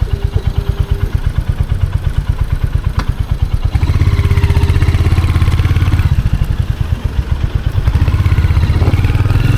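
Royal Enfield Hunter 350's single-cylinder four-stroke engine and exhaust, with separate, evenly spaced exhaust pulses at low revs. About four seconds in it becomes louder and denser as the bike pulls away. It eases back briefly and picks up again near the end.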